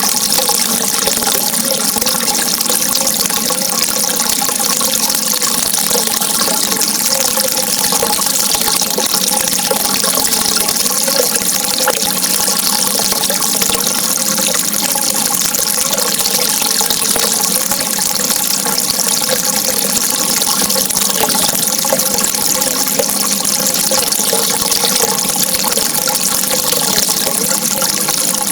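Steady running water, an unbroken hiss with a faint gurgle, unchanged in level throughout.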